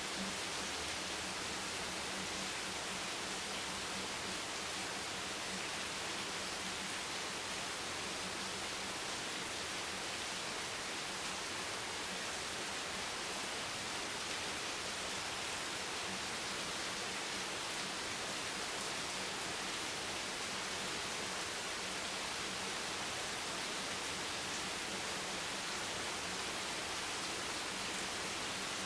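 Steady rain, heard as an even, unbroken hiss with no separate drops or thunder standing out, and a faint low hum beneath it.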